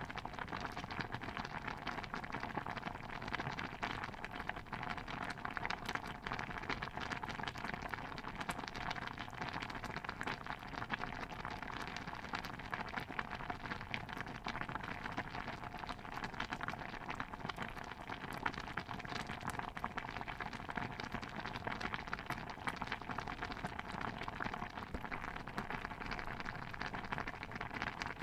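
Pot of stew bubbling steadily, a dense, even crackling patter with no pauses or changes.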